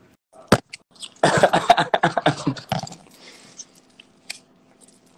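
A man coughing and clearing his throat in a rough stretch of about a second and a half, after a single sharp click.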